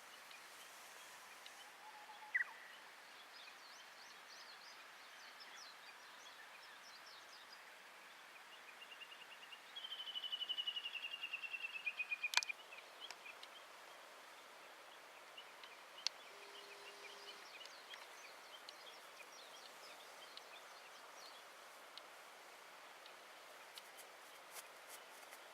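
Birds singing over quiet outdoor background noise: scattered small chirps, then about ten seconds in a rapid trill of repeated notes that falls slightly in pitch for about two and a half seconds, the loudest sound. A few sharp clicks stand out, one near the end of the trill.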